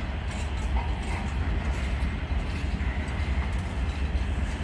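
Freight train of loaded container flat wagons rolling past, a steady rumble of wheels on the rails.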